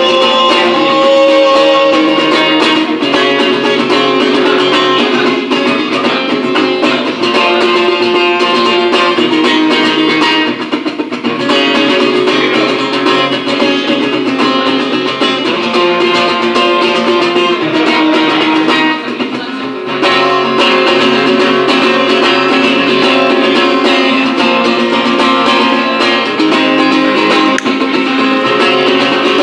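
Guitar playing an instrumental passage with no singing; it eases off briefly about ten seconds in and again just before twenty.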